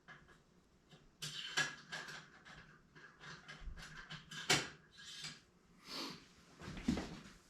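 Small metal hand tools and hex bits clinking and knocking as they are handled, an irregular run of short clicks with a brief metallic ring a little over a second in, while different bit sizes are tried on small screws.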